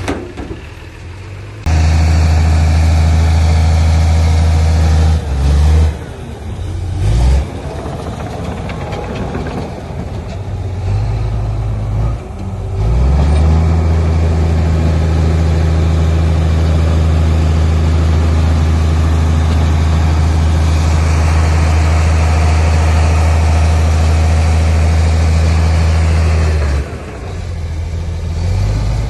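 Heavy diesel engine of earthmoving machinery running with a deep steady drone. It holds at a strong, even load for long stretches and drops back and shifts in between.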